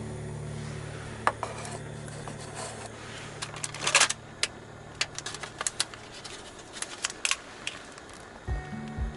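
Scattered clicks and light knocks of small objects being handled, with a louder rustle about four seconds in. Background music fades out at the start and a beat comes back near the end.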